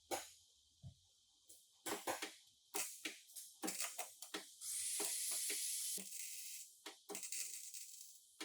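Clicks and knocks of tools and parts being handled, with a hiss of compressed air about halfway through that starts and stops sharply and lasts a little over a second.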